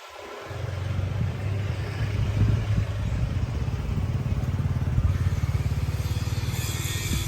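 A vehicle engine running with a steady, low rumble, starting about half a second in.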